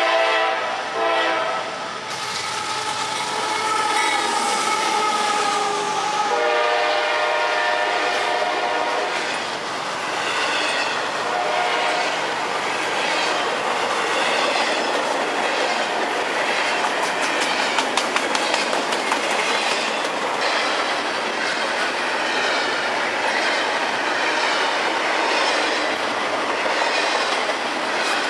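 CSX freight train passing, its locomotive air horn sounding three long blasts in the first nine seconds, the second lower in pitch than the first. After that the freight cars roll by with a steady clickety-clack over the rail joints.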